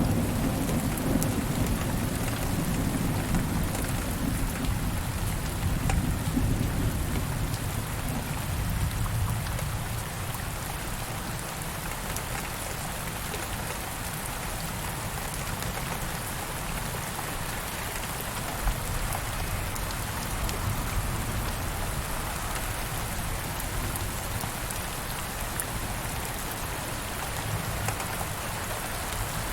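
Steady rainfall hissing on surfaces, with a low roll of thunder in the first few seconds that dies away.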